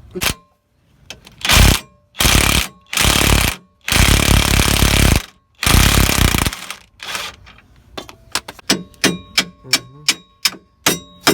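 An impact wrench running in five short bursts on a suspension bolt, the longest about a second and a half. After it, a dozen or so sharp metal clinks with a ringing tone, as tools and parts knock together.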